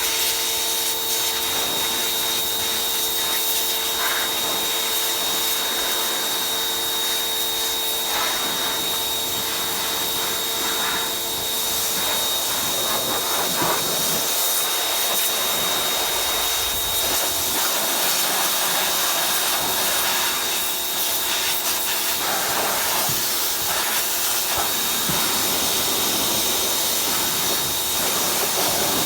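Pressure washer spraying: a steady hiss over a constant motor whine, the lower part of the whine dropping out about twelve seconds in.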